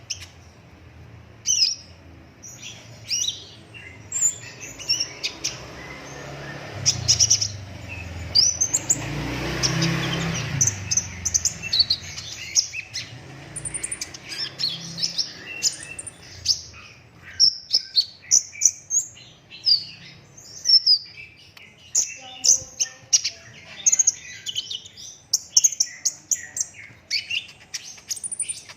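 A sunbird of the kind kept in Indonesia as the kolibri ninja (konin), in green plumage, singing hard: a fast, almost unbroken run of high, sharp chirps and short trills. About a third of the way in, a broad rush of noise swells and fades under the song.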